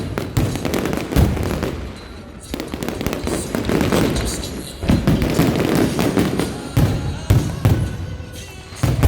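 Aerial fireworks shells bursting in quick succession, with sharp bangs, low booms and crackling, over music.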